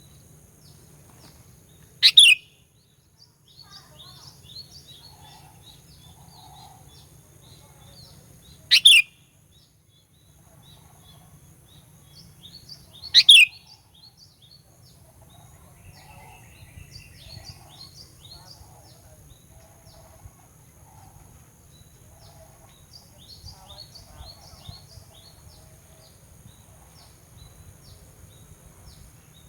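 Sooty-headed bulbul (kutilang) calls: three loud, short high calls about two, nine and thirteen seconds in, over a steady scatter of quieter, quick high chirps. It is a 'fighter' bulbul lure call meant to provoke rival bulbuls.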